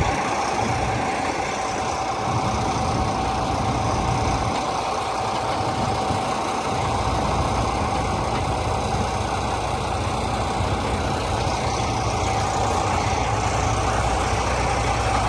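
Semi truck diesel engine idling steadily, with a constant whine running through it; the low rumble thins for a few seconds early on, then comes back.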